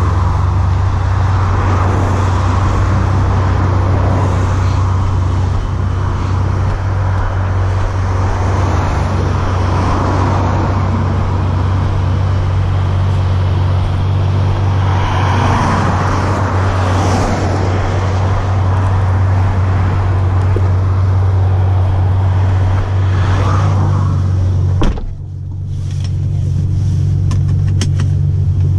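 A Ferrari F12berlinetta's 6.3-litre V12 idles with a steady low hum, over a rushing background that swells and fades a few times. Near the end a click is followed by the same idle heard from inside the cabin.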